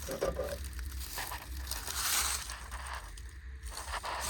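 Footsteps crunching and rustling through dry grass and weeds, over a steady low rumble of wind on the microphone.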